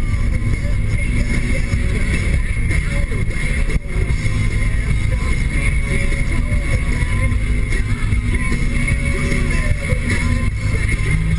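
Inside the cabin of a 2013 Nissan Sentra SR on the move: its 1.8-litre four-cylinder engine drones steadily under the CVT, which holds the revs up, over a constant wash of road and tyre noise.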